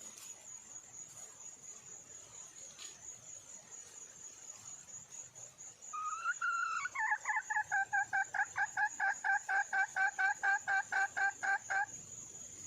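Junglefowl hen calling: a rising note about halfway in, then a rapid run of repeated clucking notes, about four a second, that stops shortly before the end. A steady high insect buzz runs underneath.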